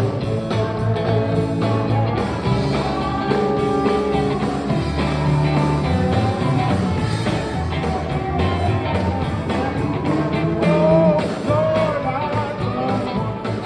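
Sacred steel gospel band playing live: a steel guitar carries a sliding, vocal-like melody over bass and drums, with gliding notes swelling about ten seconds in.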